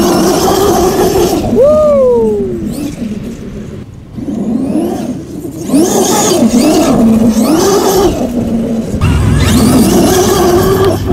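Kraken Vekta large-scale electric RC buggy's brushless motor whining up and down in pitch as the throttle is pumped, over the rush of its spinning tyres tearing through dry grass and dirt. The sound comes in several short bursts, with one long falling whine about two seconds in.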